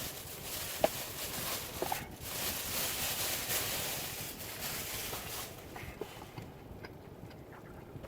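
Air conditioner blowing: a steady rush of air with a few faint clicks, which dies down about five and a half seconds in.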